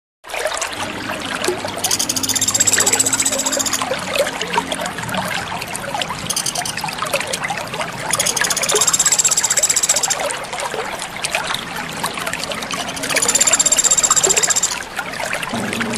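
Water trickling steadily. A high, fast buzzing trill comes four times, each bout lasting one to two seconds.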